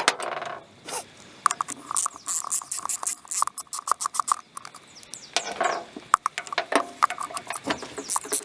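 Hand-tool work on a vane fuel pump during teardown: quick runs of short squeaky clicks and scrapes, with a stretch of rapid regular squeaks from about a second and a half in.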